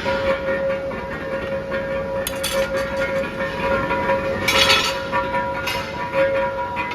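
Metalworking shop noise: a machine running with a steady whine, with a few sharp metal clinks and knocks, the loudest about four and a half seconds in.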